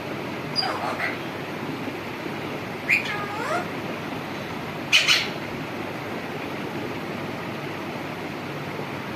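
A cat meowing three times, short calls falling in pitch, over a steady background hiss.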